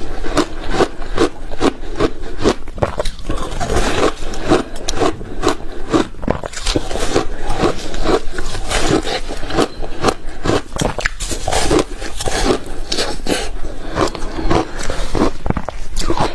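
Ice being bitten and chewed close to the microphone: a rapid, continuous crunching of many sharp cracks with no pause.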